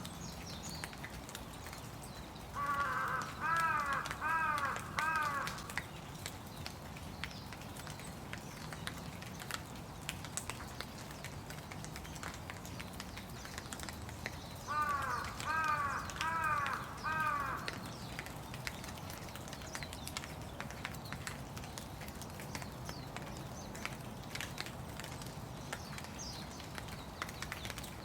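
A crow cawing in two runs of several harsh caws each, one a few seconds in and one about halfway through, over steady light rain with scattered drips.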